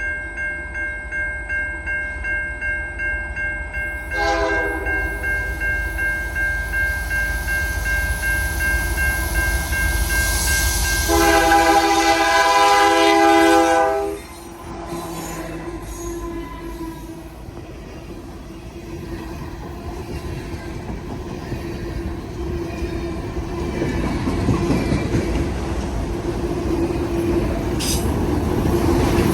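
Freight locomotive's three-chime K3L air horn sounding a crossing signal: a held chord, a short break, then a longer blast that grows louder before cutting off about fourteen seconds in. The passing train's diesel engines and wheels then build to a rising rumble.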